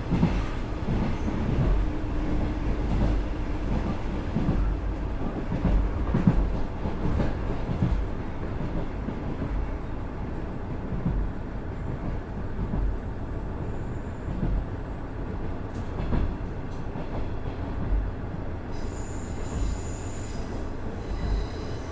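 KiHa 110 series diesel railcar (Cummins DMF14HZA engine) running along the line, heard on board: a steady rumble of wheels on rail with irregular low thumps. Faint thin high tones join near the end.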